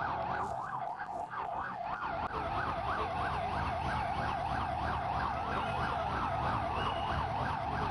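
Emergency vehicle sirens: one in a fast yelp, rising and falling about three times a second, with a second, slower wailing siren over it.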